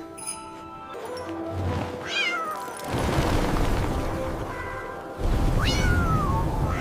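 A cartoon kitten meows twice, each a falling cry, over background music. A rushing noise comes in about three seconds in and grows louder near the end.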